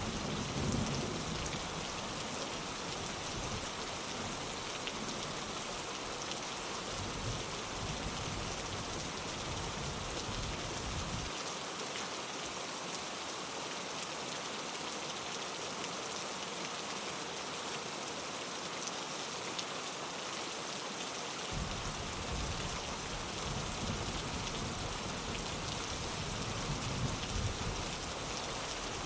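Steady rain pattering on a window, an even hiss. Low rumbling of distant thunder sits underneath near the start and again in the last third, dropping out abruptly for about ten seconds in the middle.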